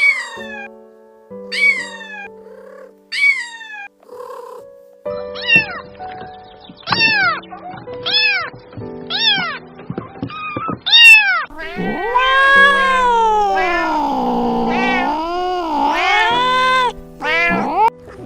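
A cat meowing again and again: short falling meows at first, then arching meows, then one long, drawn-out wavering meow lasting about five seconds, with another short meow near the end. Background music with held notes plays under it.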